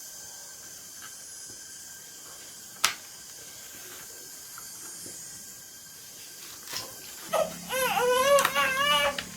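A faint steady hum with a single sharp click about three seconds in, then a loud, high, wavering cry that rises and falls several times in the last two seconds.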